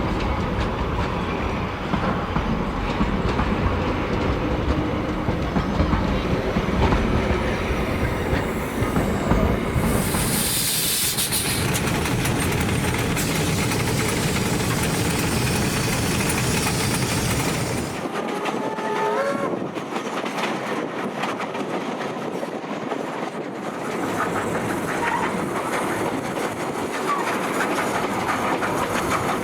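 Vintage train running on rail, its wheels clicking over the rail joints with a steady rumble. A short hiss comes about ten seconds in, and a brief wheel squeal just after the rumble drops away, about two-thirds of the way through.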